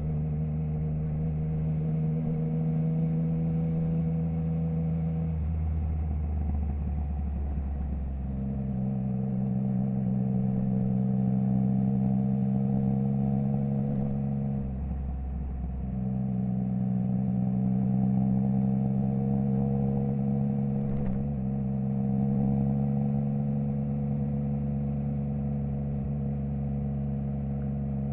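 Triumph Trident 660's inline three-cylinder engine through a Zard stainless full exhaust with the baffle removed, heard from the rider's position while riding at steady revs. The engine note eases off twice, around six and fifteen seconds in, as the throttle is rolled off, then picks back up to a steady pull.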